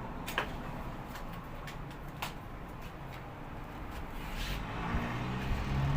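A few sharp clicks and knocks of handling on a washing machine's spin dryer, then a low hum that builds near the end.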